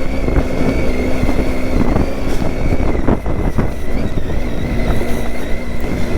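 Triumph Tiger 800's three-cylinder engine running steadily while the bike is ridden over a rough dirt trail, with a low rumble and a few short knocks.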